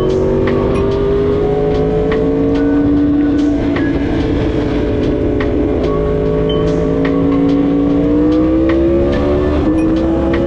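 Yamaha YZF-R1M's crossplane inline-four engine running at a steady cruise, its pitch easing down slightly and then rising near the end as the bike picks up speed.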